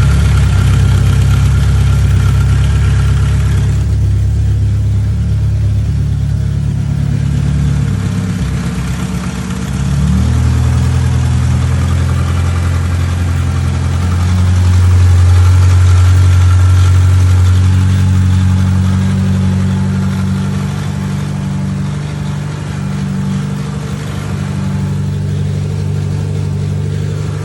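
BMW E21 engine running at a steady low speed. Its pitch steps up slightly about ten seconds in, and it gets louder for a few seconds in the middle.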